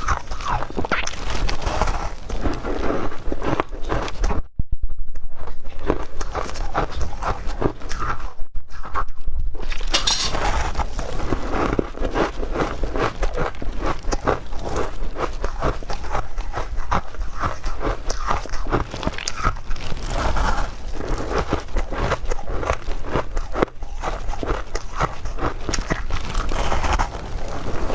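Ice being bitten and chewed close to the microphone: a continuous run of crisp, irregular crunches, with two short pauses in the first third.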